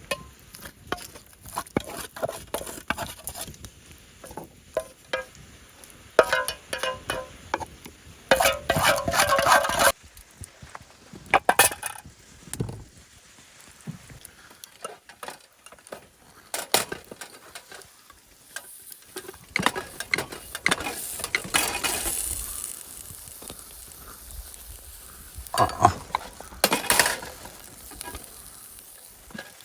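Cooking sounds: a utensil stirring and clinking against a pot while food sizzles, with scattered knocks of cookware.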